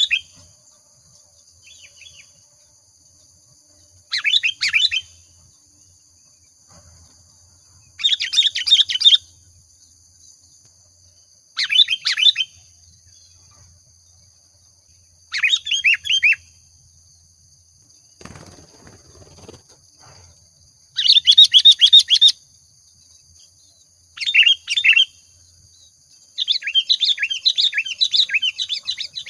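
Sooty-headed bulbul (kutilang) singing short, lively chattering phrases every few seconds; the phrases near the end are longer and louder. A steady faint high whine runs underneath.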